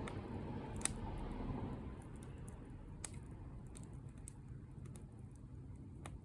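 Campfire burning with a low steady rush and irregular sharp crackles and pops, the loudest about a second in.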